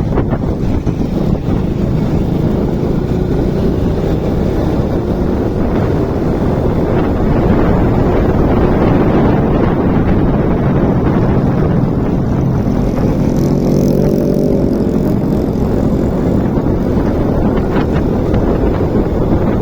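Motorcycle riding sound: wind noise buffeting the microphone over the running engine, with the engine note standing out and rising for a few seconds about two thirds of the way through.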